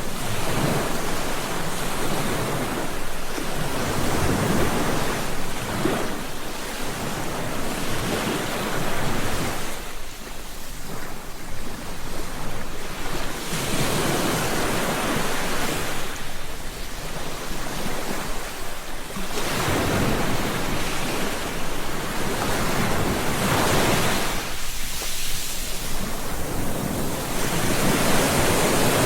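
Sea waves breaking and washing on a beach. The surf swells and falls away every few seconds, with a quieter lull about ten seconds in.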